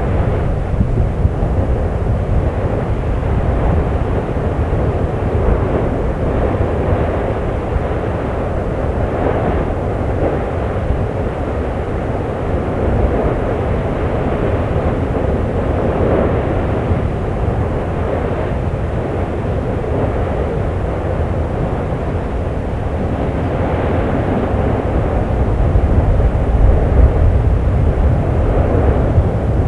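Steady low roar of an erupting Icelandic volcano's vent, rising to a louder swell near the end.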